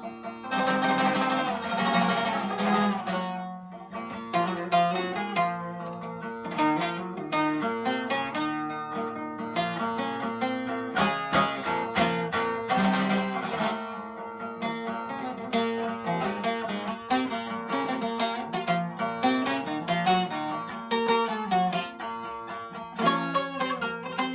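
Bağlama (Turkish long-necked lute) played in a free improvisation: quick runs of plucked notes over a steady ringing lower note, with bursts of fast tremolo strumming about a second in and again about halfway through.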